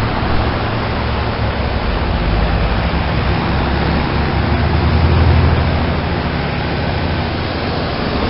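Outdoor heat pump condensing units running in heating mode: a steady rush of the fan with a low compressor hum underneath.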